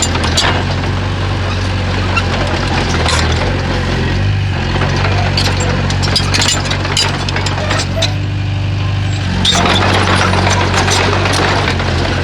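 Bulldozer's diesel engine running steadily, with frequent short metallic clanks and knocks over it. The engine grows louder and harsher about nine and a half seconds in.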